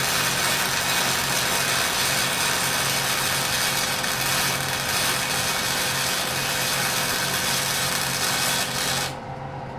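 Wire-feed (MIG) welding arc striking and running steadily, a continuous crackling hiss that stops near the end when the arc is broken. A low electrical hum from the welder runs underneath.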